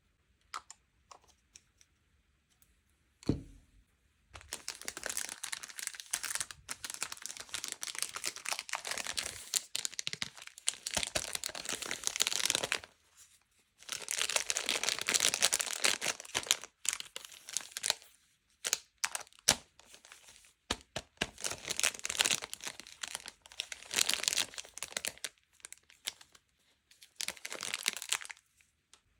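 Sweet and toy packaging being torn open and crinkled by hand, in long crackly stretches with short pauses between them. A few light clicks and one sharp knock come before it, about three seconds in.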